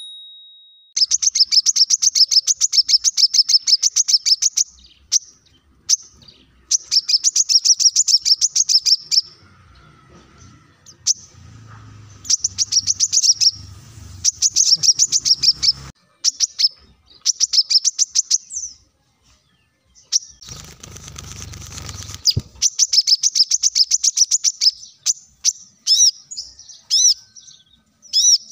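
Brown-throated sunbird (kolibri kelapa) singing: bouts of rapid, high chirping trills, each a few seconds long, repeated with short gaps.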